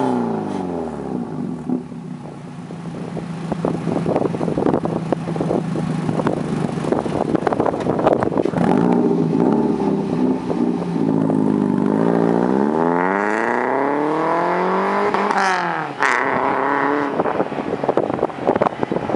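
Toyota MR-S's 1.8-litre four-cylinder engine heard through its exhaust and muffler. Engine speed falls at the start, holds steady for several seconds, climbs for about three seconds, drops sharply about sixteen seconds in, then holds steady again.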